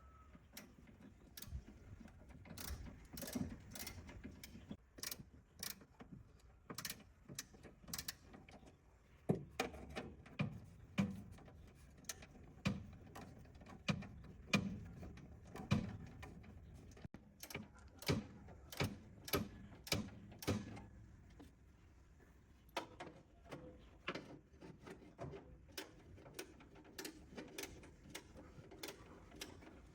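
Hand tools working on metal parts: a long run of sharp, irregular clicks and knocks, several a second at times, with a brief quieter stretch about two-thirds of the way through.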